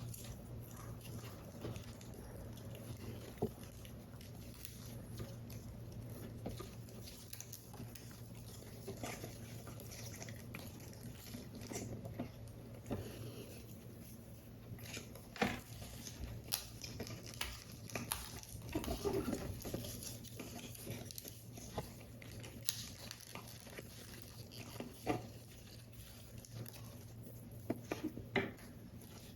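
Close-up handling of paper model parts: soft paper rustling and scraping with scattered small taps and clicks, the sharpest about halfway through, over a steady low hum.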